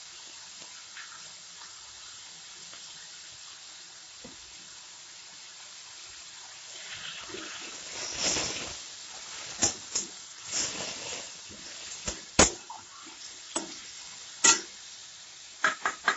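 Onion-tomato masala with freshly added chilli and turmeric powder sizzling gently in oil in a metal kadai. From about seven seconds in, a steel spatula stirs and scrapes it, with several sharp clinks against the pan.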